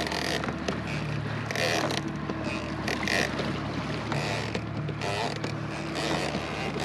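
Small boat's outboard motor running steadily at low speed, with short, irregular rushing bursts of wind and water against the hull.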